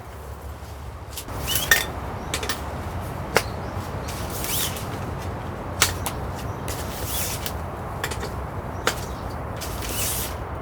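Steady low rumble of strong wind, with a handful of sharp clicks and knocks and a few brief rustling swells.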